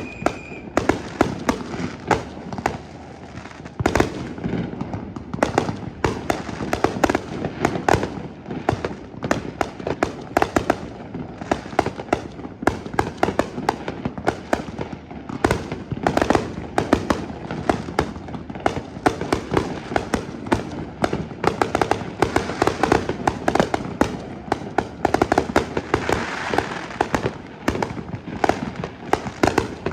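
Fireworks display: a fast, continuous barrage of bangs and crackling shells, several reports a second, with one louder boom about four seconds in.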